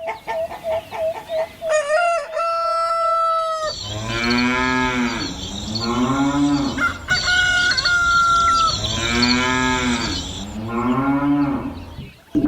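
Farmyard animal sounds: a hen clucking in quick, even clucks, then a rooster crowing, then cows mooing in long moos that rise and fall, in two pairs, with a second rooster crow between them. A steady high hiss runs under the middle part.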